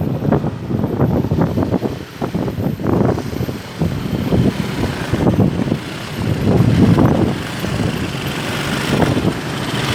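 Road vehicles running through a railway level crossing, an uneven low rumble that swells and fades, just after a train has passed.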